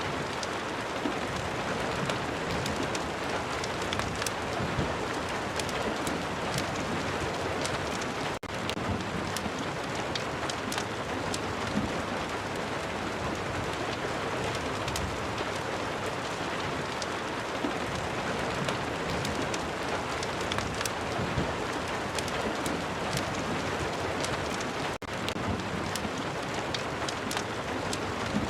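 Steady rain mixed with the crackle of a wood fire: an even hiss with scattered sharp pops. The sound drops out for a split second twice, about a third of the way in and near the end.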